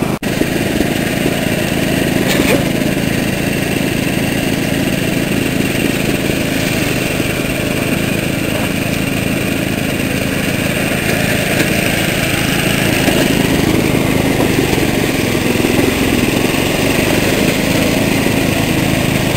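Small garden tractor engine running steadily while the tractor is driven slowly.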